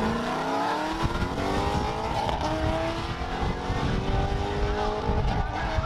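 Ford Mustang GT's 5.0-litre V8 accelerating hard down the drag strip. The engine pitch climbs steadily, drops back at an upshift about two seconds in, climbs again, and drops at another shift near the end.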